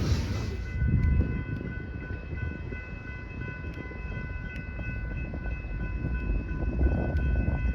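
Train at a station: the loud noise of a passing train dies away in the first second, leaving a low rumble with a steady high-pitched tone held over it.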